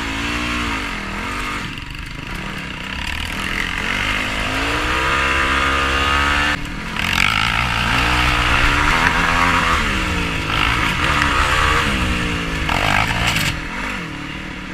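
Yamaha YFZ450R quad's single-cylinder four-stroke engine being ridden hard, revving up and down with the throttle. The pitch climbs steadily for a couple of seconds, drops abruptly about six and a half seconds in, then rises and falls again.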